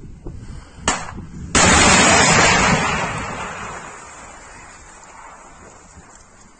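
Stugna-P anti-tank guided missile launching: a short sharp pop, then a sudden loud rushing blast from the rocket motor that holds briefly and fades over several seconds as the missile flies away.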